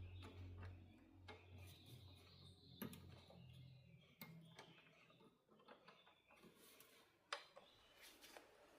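Near silence: a faint low hum fades out over the first few seconds, with a few scattered small clicks, the sharpest about seven seconds in.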